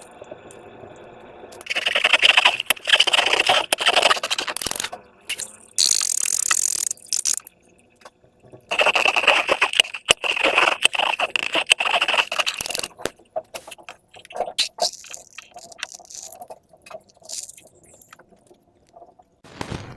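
Hands squeezing and rubbing transparent slime-filled balloons: dense crackling, squeaking and scraping in two long spells, with a short hiss between them and scattered clicks later on.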